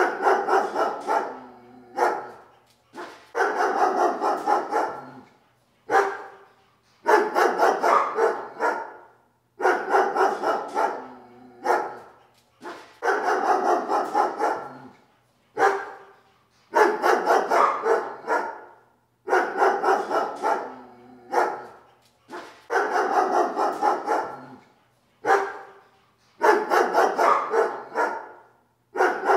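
A dog barking over and over in runs of quick barks, a new run about every two and a half seconds.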